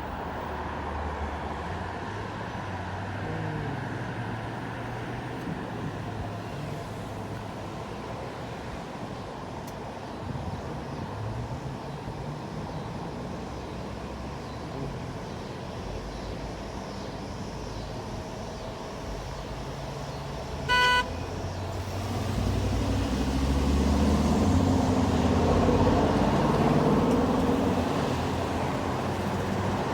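Gusty storm wind buffeting the microphone over distant traffic noise, growing louder in the last third. One short car horn toot sounds about two-thirds of the way through.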